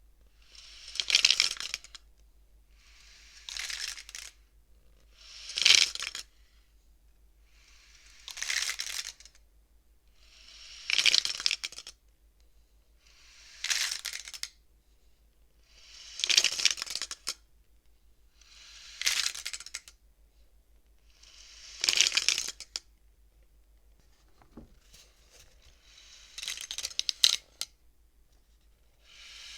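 Wooden beads of a toy bead abacus being slid along their rods. Each stroke is a short clattering slide that ends in a click, repeated about once every two and a half seconds, around eleven times.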